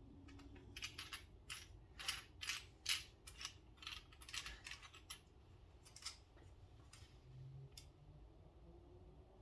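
A run of faint, sharp, irregular metal clicks and taps, about two or three a second, from small knife parts and tools being handled during reassembly of a pocket knife. The clicks stop about six seconds in, and one more comes near the end.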